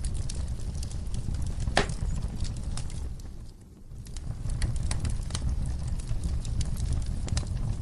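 Wood fire burning in a fireplace: a steady low rumble with irregular small crackles and one louder pop about two seconds in. The sound dips briefly quieter about three and a half seconds in.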